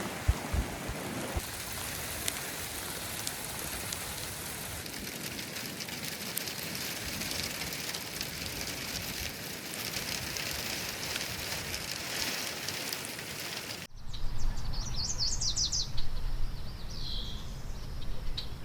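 Heavy rain pouring down, a dense hiss full of fine drop ticks, loud enough to keep the campers awake. About 14 seconds in it cuts off abruptly to a quieter morning scene with a low hum and two short bursts of bird chirps.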